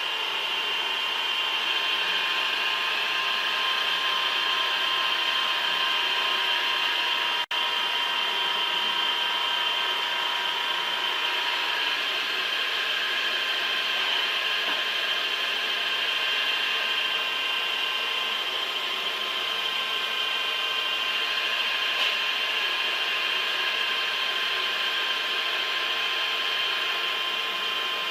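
Heavy machine tool running with a steady mechanical whine and several high, steady tones over a noisy hiss, broken by a brief dropout about seven and a half seconds in.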